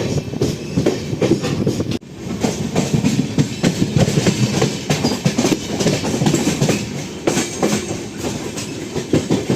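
Passenger train coach running at speed: wheels rattling and clattering over the rails in a dense clickety-clack with a rumble beneath. There is a brief break in the sound about two seconds in.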